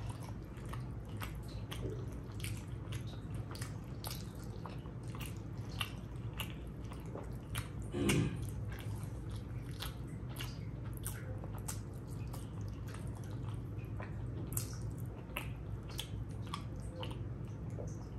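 Close-miked wet chewing and lip-smacking of a person eating curry and rice: many small irregular smacks and squishes over a low steady hum, with one louder wet sound about eight seconds in.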